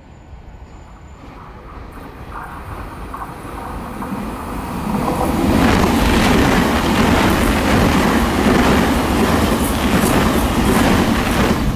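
Taiwan Railways Puyuma Express, a TEMU2000 tilting electric train, approaching and passing close by at speed: wheel-and-rail noise grows steadily and is loud from about five seconds in. Rapid wheel clacks over the rail joints run through it as the cars go by.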